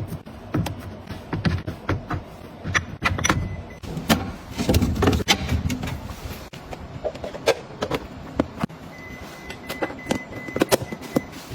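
Items being handled and set down by hand: a run of irregular clicks, knocks and clatters, with short rustles in between.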